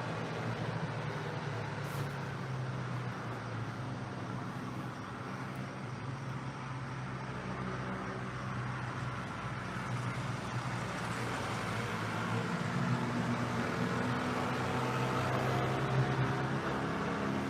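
A motor engine running steadily with a low hum, getting a little louder and higher-toned in the last few seconds.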